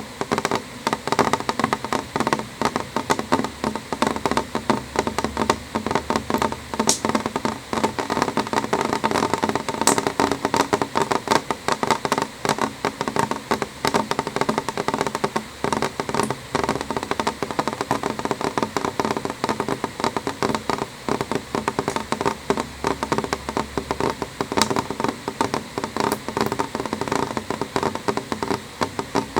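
Rain falling on a window: a dense, uneven patter of drops tapping on the glass, with a few sharper single drops standing out.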